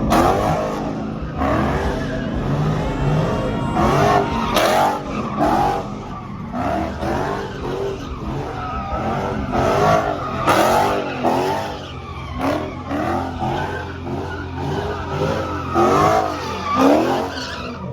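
A car sliding in circles, its tyres squealing in repeated rising-and-falling wails over the steady drone of the engine held at high revs.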